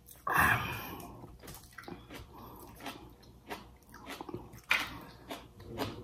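Close-up eating sounds: chewing with irregular wet mouth clicks and smacks, and a louder short burst about half a second in.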